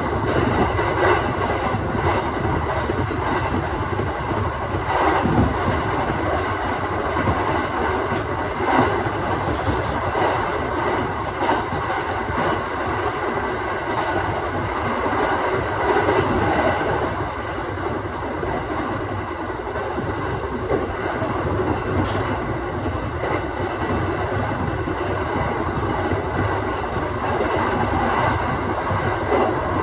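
Aoimori Railway 701 series electric multiple unit running along the line, heard from inside the train: a steady rumble of wheels on rail with a few sharp clacks at irregular intervals.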